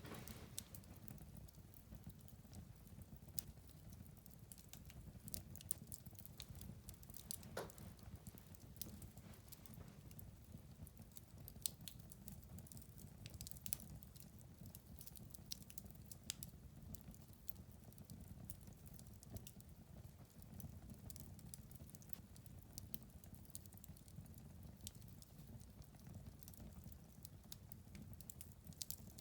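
Fire burning in a fireplace: faint, irregular crackles and pops over a low, steady noise, with a few louder pops scattered through.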